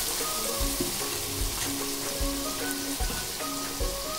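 Diced yellow cucumber frying with chilli powder in oil in a non-stick pan, a steady sizzle. Background music with a soft beat plays along with it.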